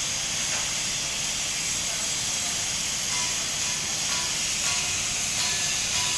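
Electric welding arc hissing steadily as a weld is laid.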